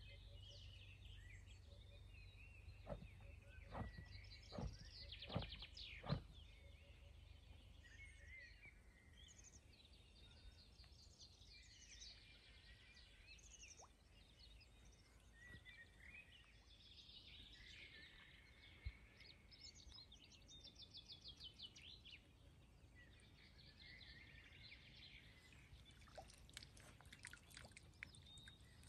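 Faint songbirds singing and calling: many short chirps and fast trills, overlapping throughout. A few sharp knocks come in the first six seconds or so.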